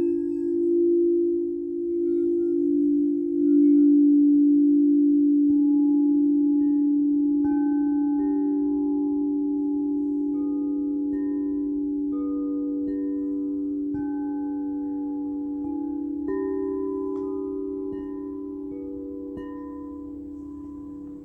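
Singing bowls ringing: low bowls struck a few times in the first few seconds, their overlapping tones then fading slowly, with short higher chime-like notes sounding here and there.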